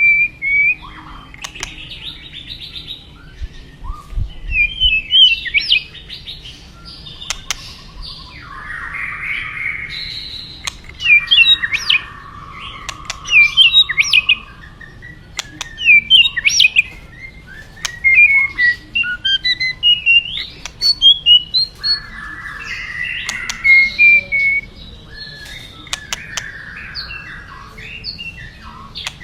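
White-rumped shama (murai batu) singing a long run of varied phrases: quick whistles that glide up and down, mixed with harsh rasping notes, in bursts every second or two. A faint steady rush of flowing river water runs under the song.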